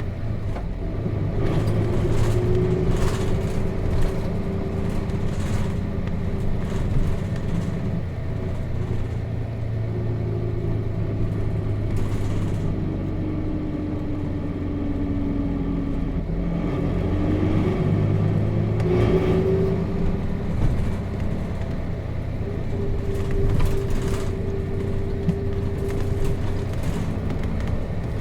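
Nissan Diesel RM bus's FE6 inline-six diesel engine heard from inside the bus while driving, its note rising and falling several times as it pulls away and eases off, over steady road rumble.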